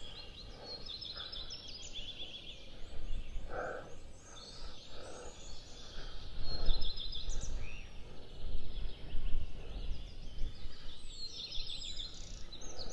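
Several songbirds singing and calling: repeated chirps, trills and quick whistled phrases overlapping throughout, over a steady low rumbling background noise.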